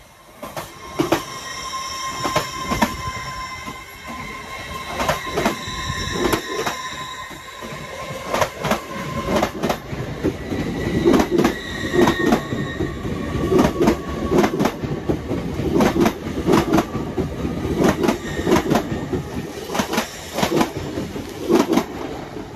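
An LNER Azuma (Hitachi-built) passenger train passing close by, its wheels clicking over rail joints in an uneven rhythm over a steady rumble. High squealing tones ride above it throughout.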